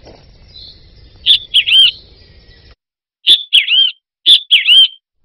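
A small songbird chirping: a short three-note phrase, a quick chirp then two swooping notes, repeated three times with pauses between.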